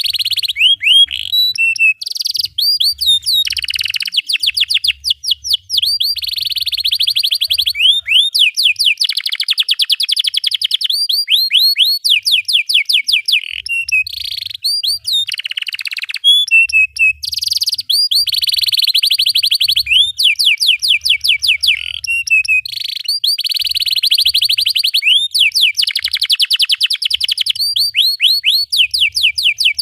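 Canary singing without pause: long, tight rolls of rapidly repeated sweeping notes, broken by short chirps.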